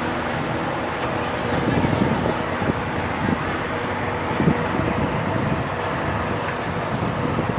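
Claas Jaguar 870 self-propelled forage harvester running, a steady machine drone with a constant hum.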